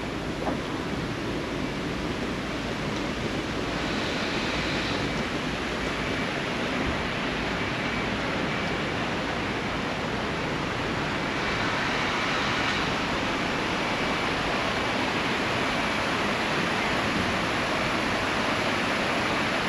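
Sea surf washing onto the shore as a steady hiss, swelling about four seconds in and again about twelve seconds in.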